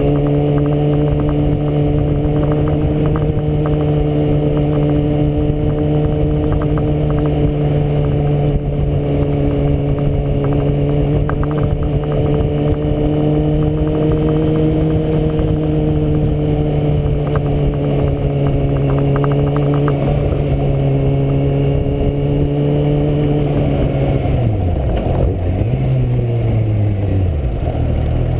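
2009 Kawasaki Ninja ZX-6R's inline-four engine, heard from a camera mounted on the bike, holding a steady pitch at cruising speed. Near the end the note drops and dips up and down as the bike slows through the gears.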